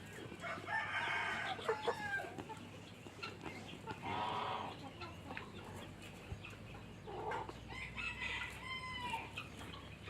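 Chickens clucking and calling, with a rooster crowing among them: several separate calls, the loudest about four seconds in.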